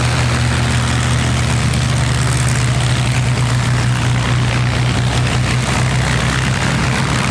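Piston-engined propeller warbird running steadily at low power, as when taxiing: a loud, even engine hum that does not rise or fall.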